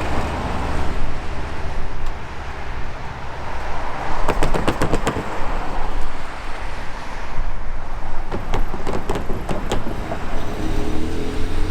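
Freight train led by an EMD SD70ACE diesel locomotive with a 16-cylinder EMD 710 engine, passing with a steady low rumble. Clusters of sharp clicks come about four seconds in and again around eight to ten seconds in.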